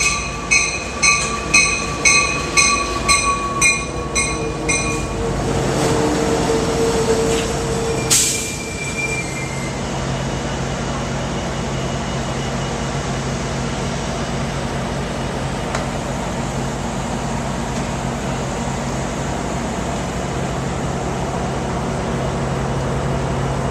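Passenger train arriving: the locomotive's bell rings about twice a second for the first five seconds, then the wheels or brakes squeal briefly and a short sharp hiss of air comes about eight seconds in. After that, the stopped diesel locomotive idles with a steady low hum.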